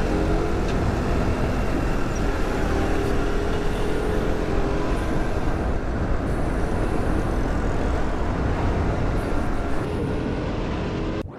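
Motorcycle engine running while riding on a road, mixed with steady road and wind noise, and traffic around. The sound cuts off abruptly at the very end.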